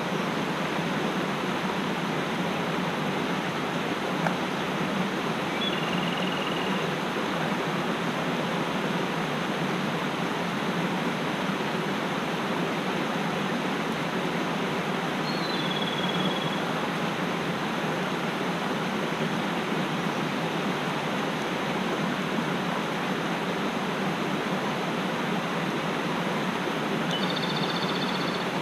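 Mountain stream rushing steadily, with a bird giving three short, high whistled notes spread through it.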